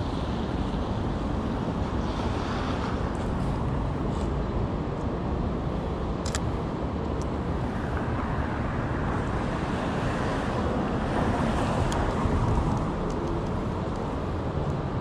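City street ambience: a steady rumble of traffic with wind buffeting the microphone, and a few sharp clicks, two near the middle and one later.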